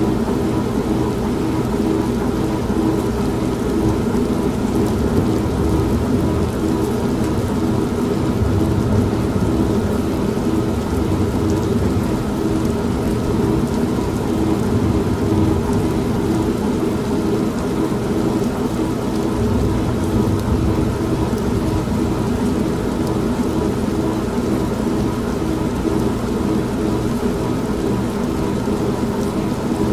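An old washing machine running with a steady hum, mixed with steady rain and low rolling thunder, which swells about a third of the way in and again about two thirds in.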